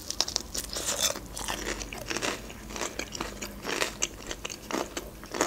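A bite into crispy breaded fried chicken, then chewing with many irregular crunches and crackles from the coating.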